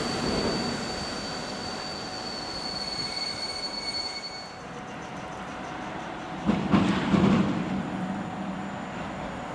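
Distant passenger train moving through a railway station, with a steady high-pitched squeal over the rail noise that stops a little under halfway through. About two-thirds of the way in, a short louder rumble rises and fades.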